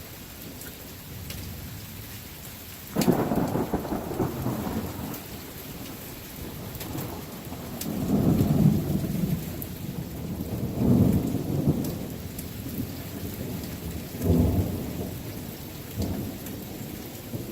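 Thunder over steady rain: a sudden sharp clap about three seconds in, followed by several rolling rumbles that swell and fade, with the hiss of rain throughout.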